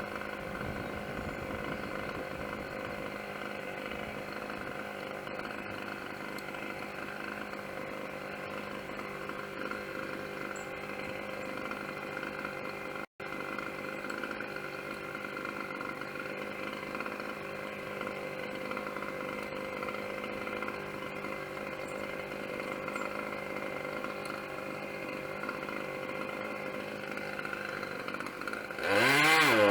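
Chainsaw engine idling steadily, then revving up and down near the end as it is throttled for a cut.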